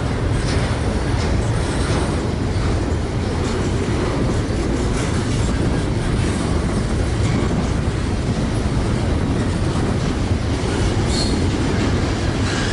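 Freight train rolling past close by: a steady rumble of steel wheels on the rails with light clicking at the rail joints.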